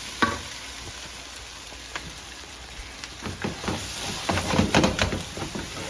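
Chili chicken sizzling in its sauce in a hot pan, a steady hiss. Scattered knocks and scrapes from stirring come in a cluster in the second half.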